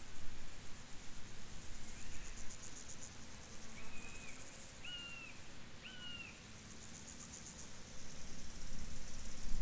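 Crickets chirping in bouts of rapid high-pitched pulses over a low background rumble, with four short whistled bird notes, each falling at its end, around the middle.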